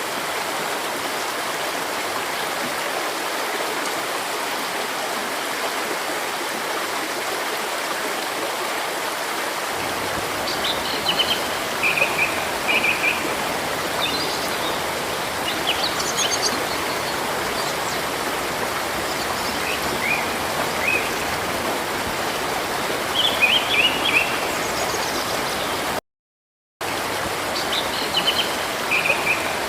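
Steady rushing of river water, with small birds chirping in short bursts from about a third of the way in. The sound drops out to silence for under a second near the end.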